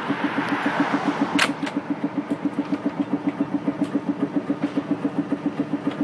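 New Orleans St. Charles streetcar running with a steady, rapid mechanical throb, about eight beats a second. A brief hiss in the first second and a sharp click about one and a half seconds in.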